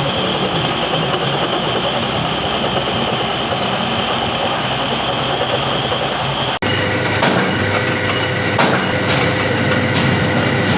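A metal lathe running with a steady mechanical noise. About two-thirds of the way through the sound cuts off abruptly and resumes with a steady whine and a few sharp clicks.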